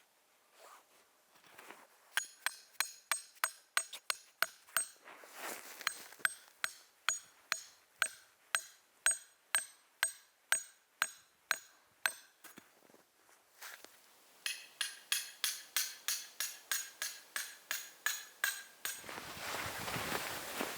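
A hammer driving a metal tent peg: a long run of quick, ringing metallic strikes, about three a second. After a short pause a second run follows. A steady rushing noise starts near the end.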